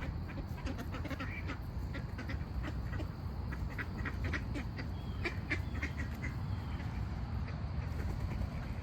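Birds calling in many short, repeated notes, thickest through the middle, over a steady low rumble.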